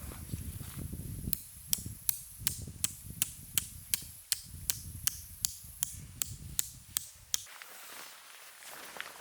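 A rapid, even series of sharp clicks or taps, a little under three a second, that stops about a second before the end.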